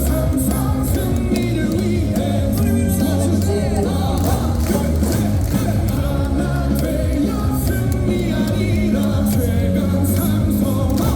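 Loud amplified rock-style cheering song with a heavy beat over a stadium's speakers, with fans singing along.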